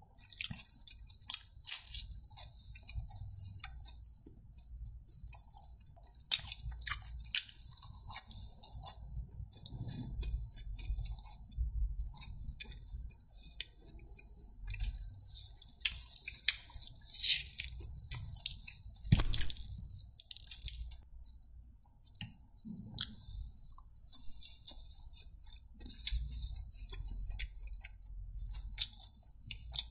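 Close-miked chewing and biting of Domino's fast food, with a dense, irregular run of short crisp crackles and mouth sounds.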